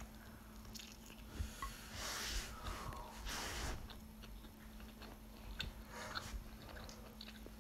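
A person biting into and chewing a mouthful of burrito: soft, quiet mouth and chewing sounds with small clicks.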